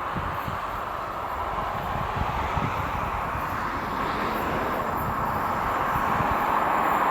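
Approaching train, its wheels running on the rails in a steady rumble and hiss that grows louder.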